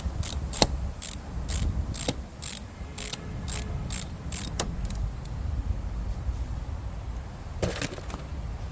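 Ratchet wrench clicking in short, even strokes, about three clicks a second, as a 6 mm hose clamp on the engine's intake is loosened. The clicks stop about four and a half seconds in, and a couple more come near the end, over a steady low rumble.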